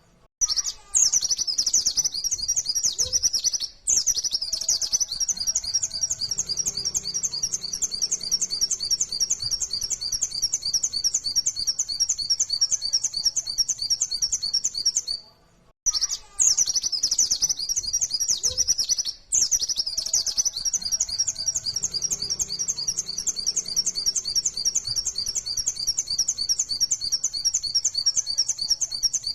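White-eye (pleci, Zosterops) singing a long, very rapid run of high chirping notes, the fast-firing song that bird keepers call 'nembak'. The song breaks briefly a few times, with a half-second pause about halfway, then starts the same sequence over.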